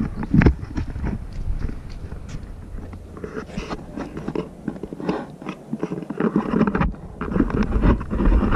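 A person biting into and chewing a s'more close to the microphone, with irregular crunching clicks throughout.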